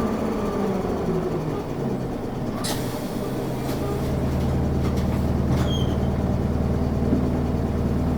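Isuzu Erga city bus heard from inside, slowing down, then its diesel engine settling to a steady idle about halfway through as the bus stands. A few short hissing clicks come in between.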